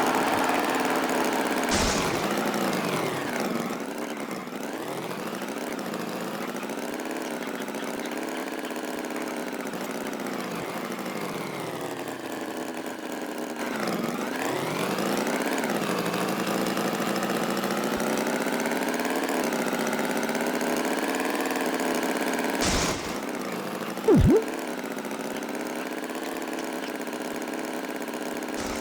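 Tractor engine running, its pitch rising and falling as it revs up and slows down. There is a sharp knock about two seconds in, another near the end, and a short loud burst just after it.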